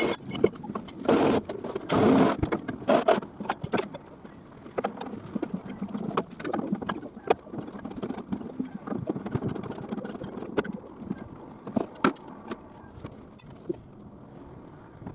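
Irregular knocks, clanks and scraping from hand demolition work, loudest and densest in the first three seconds, then more scattered.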